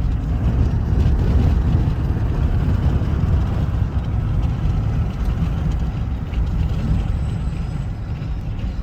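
Truck driving along the road, heard from inside the cab: a steady low rumble of engine and tyre noise.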